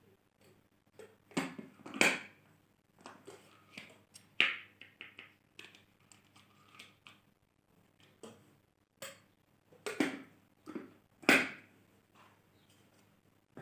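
Irregular handling noises from a coffee maker and its packaging being unboxed: scattered clicks, taps and knocks with short rustles. The loudest come about 2, 4.5 and 11 seconds in.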